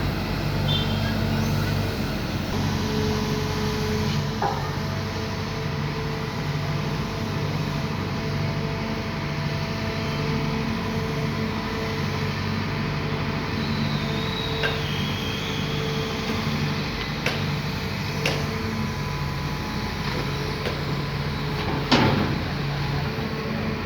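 Sumitomo SH210 long-arm excavator's diesel engine running steadily as it digs and loads mud, its note swelling and easing, with a few sharp metallic knocks, the loudest near the end.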